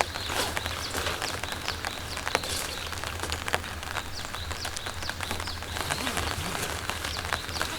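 Steady rain falling in a forest, with many sharp drops ticking on nearby surfaces and small birds chirping through it.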